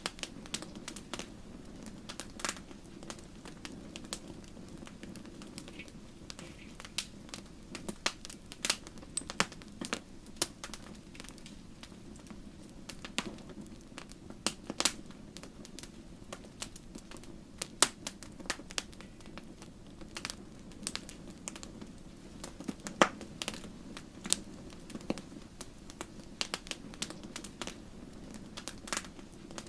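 Wood fire burning in a fireplace, the logs crackling with many irregular sharp pops over a steady low rumble of the flames; a few pops stand out louder, one about two-thirds of the way through.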